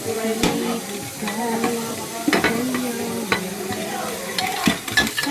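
Dishes being washed by hand: plates and utensils clinking and scraping in water, with several sharp clinks.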